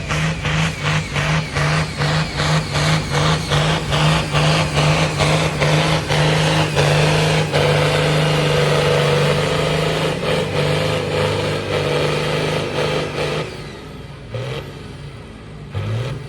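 Pulling tractor's engine running hard under full load. It pulses about four times a second at first, then holds a steady high note, then cuts back sharply near the end as the throttle comes off.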